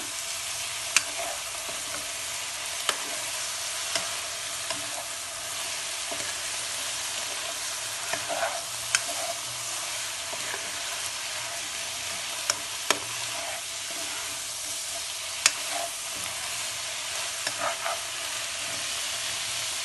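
Chicken, vegetables and chopped greens sizzling in a nonstick pan as a spatula stirs them, with a steady frying hiss and sharp clicks of the spatula against the pan now and then.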